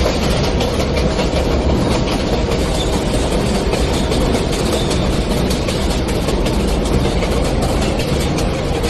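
New York City subway J train running between stations: a steady rumble of wheels on rails with faint quick clicks through it.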